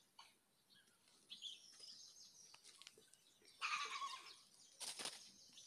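Faint outdoor ambience with scattered high bird chirps, a louder bird call about three and a half seconds in, and a short burst of rushing noise about five seconds in.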